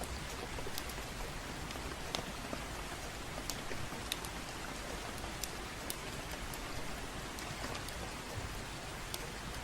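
Steady rain, with scattered sharp crackles and pops of a wood fire in a fireplace.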